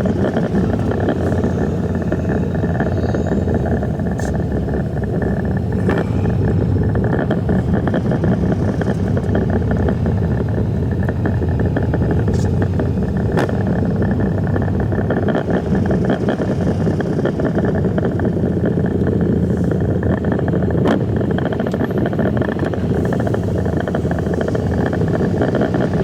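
Semi-truck's diesel engine running steadily, heard from inside the cab as a constant low rumble, with a few faint clicks.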